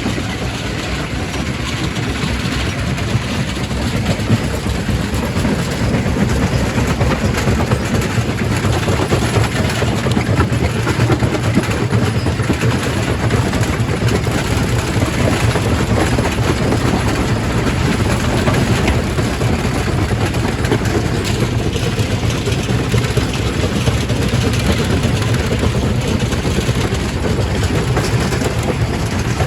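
Quarry primary rock crusher running and crushing stone: a steady heavy rumble with dense clatter of rock.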